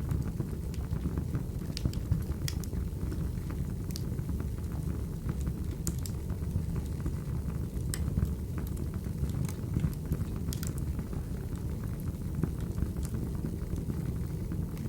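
Wood fire crackling: a steady low rumble of burning logs with scattered sharp pops, about one every second or two.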